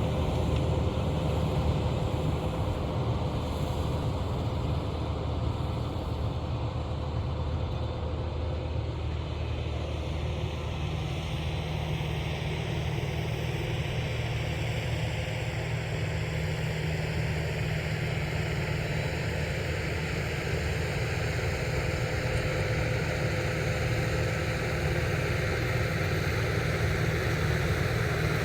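Farm tractor's diesel engine running steadily under load while its rotary tiller works the soil.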